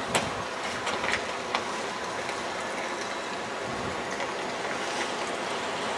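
A train passing: a steady rumble with a few sharp metallic clanks in the first two seconds.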